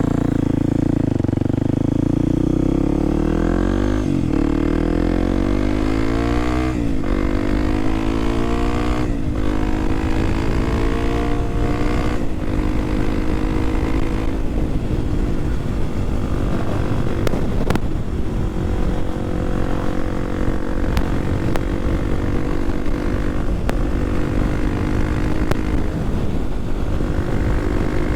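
Kawasaki KLX300SM's single-cylinder engine accelerating through the gears, the pitch climbing and dropping at each of four upshifts in the first twelve seconds or so, then running steadily at cruising speed with the pitch slowly rising.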